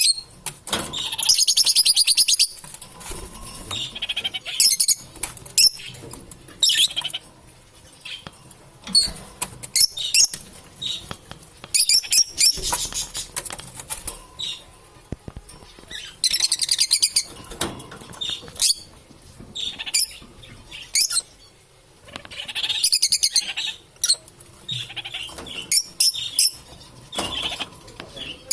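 Lovebirds chattering: bursts of rapid, high-pitched chirps and squeaks, coming again every second or two.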